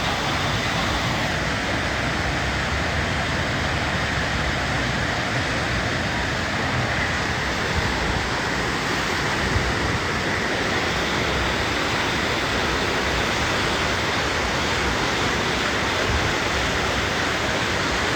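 Steady rushing noise of a waterfall, unbroken and even throughout.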